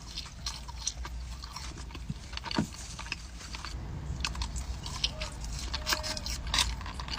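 Close-miked eating: irregular crunchy crackles of bites and chewing, over a low steady hum.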